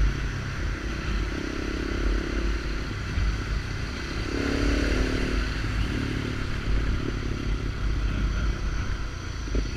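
Small Kawasaki Ninja motorcycle with an open sport exhaust running on the move, with a steady low rumble; its engine note climbs and then eases off around the middle.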